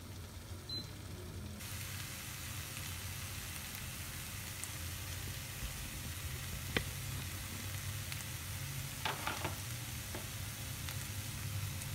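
Vegetable omelette sizzling as it fries in a nonstick pan, the sizzle growing louder about a second and a half in over a low hum. There is one sharp click near the middle and a few quick clicks a couple of seconds later.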